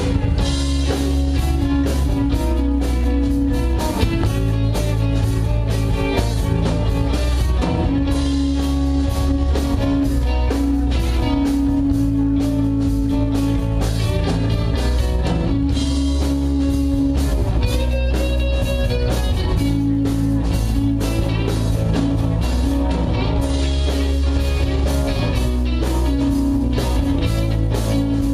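Rock band playing an instrumental passage with no vocals: electric guitar over bass and drums, in a steady beat.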